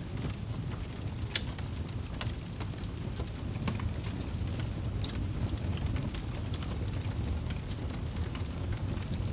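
Wood fire burning in a fireplace: a steady low rumble of the flames with irregular sharp crackles and pops of the firewood, a few of them louder, one about a second and a half in.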